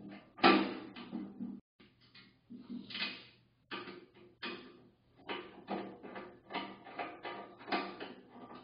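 Hand tools working on a steel ammo can: a string of irregular metal knocks and scraping strokes, the loudest about half a second in, breaking off briefly near two seconds in.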